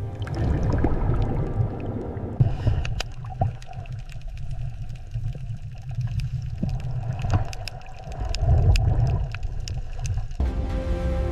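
Water sound: a low rumbling, gurgling wash with many scattered sharp clicks and crackles. Music with steady held tones comes back near the end.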